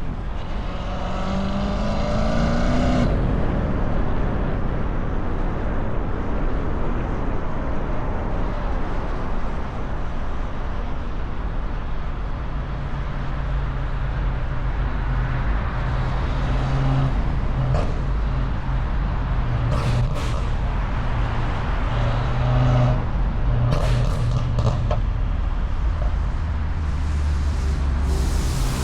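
A car engine running under a steady haze of road and traffic noise, its low drone holding one pitch for long stretches.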